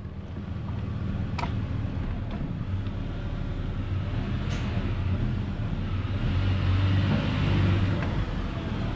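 Ford Ranger's four-cylinder engine running at a steady fast idle after a cylinder head swap, with a couple of faint clicks.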